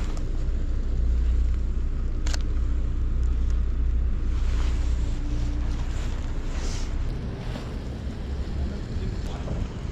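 Wind buffeting the microphone in a blizzard, a low rumble that is heaviest in the first few seconds, with one sharp click about two seconds in.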